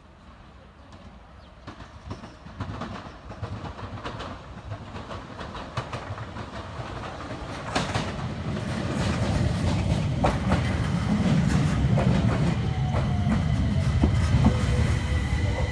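Enshu Railway electric train pulling into the station, its rumble growing louder with wheels clacking over rail joints. In the second half a thin whine slowly falls in pitch as the train slows.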